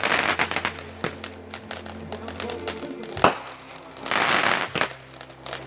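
Backyard consumer fireworks going off: a rapid run of crackling snaps, then one loud bang about three seconds in, followed by a short hiss. Music plays steadily underneath.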